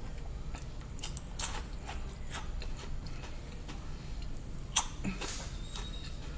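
Eating sounds: chewing with a scatter of short sharp clicks and crunches, the loudest about one and a half seconds in and again near five seconds in.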